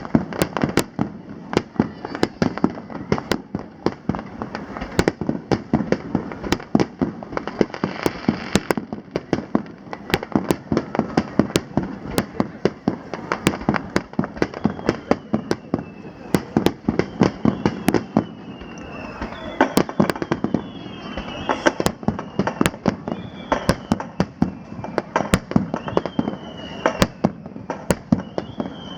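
Fireworks display: a rapid, dense string of bangs and crackles from shells bursting. In the second half a run of falling whistles sounds between the bangs.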